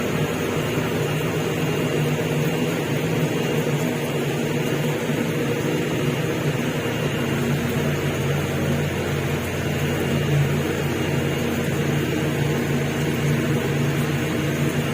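Steady drone of a ferry's engines and machinery, a constant low hum made of several steady tones over a rushing noise, unchanging throughout.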